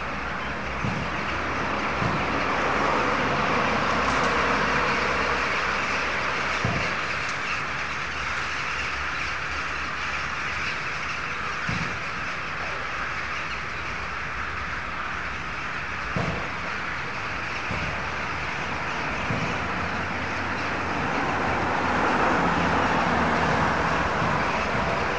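A large flock of birds calling all at once, a dense chatter that swells and eases, over a steady low rumble of traffic.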